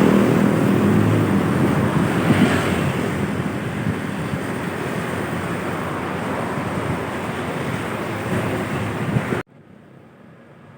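A heavy truck or bus passing close by: its engine note fades in the first second or so, giving way to a steady rush of tyre and wind noise that slowly eases off. The sound cuts off abruptly about nine seconds in to a much quieter road background.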